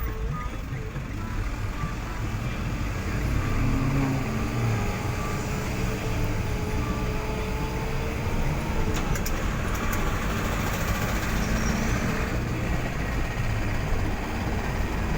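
Road vehicle driving along, a steady low engine and road-noise rumble.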